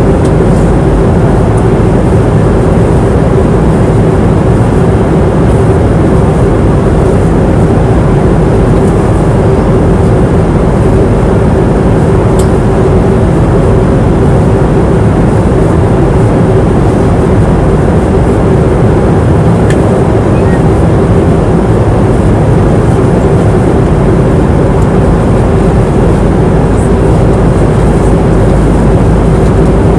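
Steady cabin noise of an airliner in flight: a constant low roar of engines and air, with a steady hum in it.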